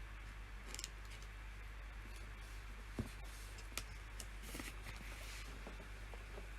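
A few scattered computer keyboard and mouse clicks, one sharper click about three seconds in, over a steady low hum.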